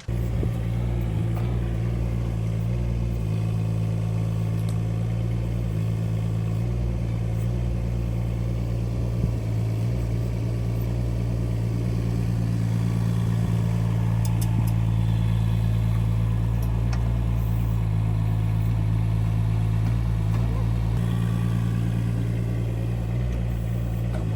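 Mini excavator's small engine running steadily, a little louder for a few seconds past the middle.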